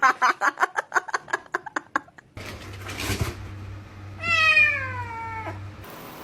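A cat calling: a quick run of short, high calls, about eight a second, for the first two seconds. Then, after a change of clip, one long meow that slides down in pitch, over a low steady hum.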